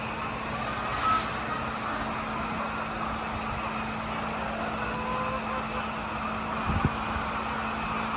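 A steady mechanical hum, with a few short low thuds about seven seconds in.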